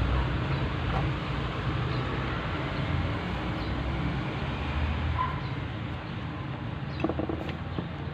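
Steady low rumble of a vehicle engine that slowly fades away, with a few faint light clicks of small parts being handled.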